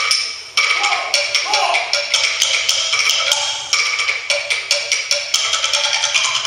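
Dance music of sharp wooden percussion knocks in a fast, uneven rhythm, over high, shrill held tones, with a short break just after the start.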